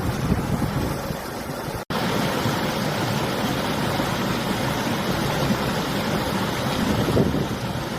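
River water rushing steadily, with winter wind buffeting the microphone as a gusty low rumble. The sound cuts out for a split second about two seconds in.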